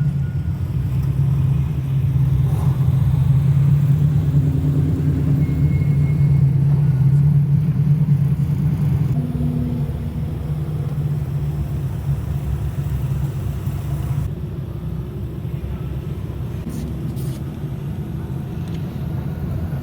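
Car exhaust rumbling steadily at low revs, a little louder for the first several seconds.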